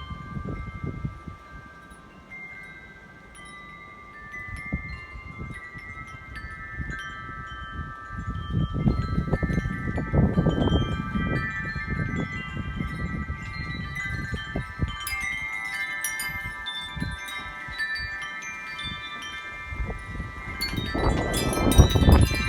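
Wind chimes ringing in high wind, many long overlapping tones struck again and again. Gusts of wind rumble on the microphone, strongest about nine to eleven seconds in and near the end, when the chimes are struck hardest.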